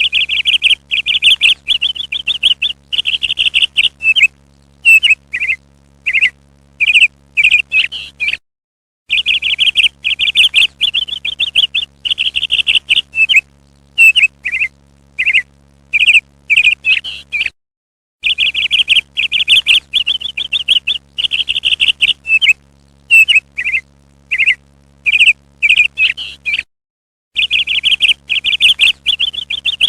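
Parrot calls: a run of rapid, harsh chattering notes followed by single short calls, the same sequence of about eight seconds playing three times over with a brief dead-silent gap between each, as in a looped calling recording.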